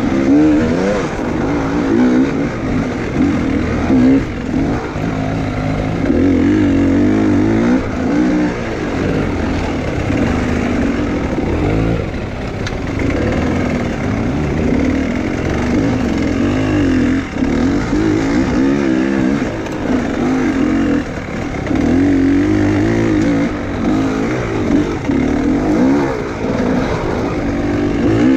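Enduro motorcycle engine being ridden hard, revving up and easing off over and over, so its pitch keeps rising and falling.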